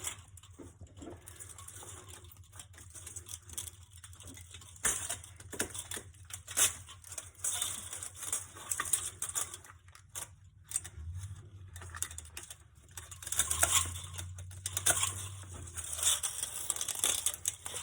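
Thin aluminum fins of an HVAC A-coil crinkling, scraping and tearing as copper tubing is pulled out of them by hand. It comes in irregular runs of small ticks and rasps, louder in a few spells.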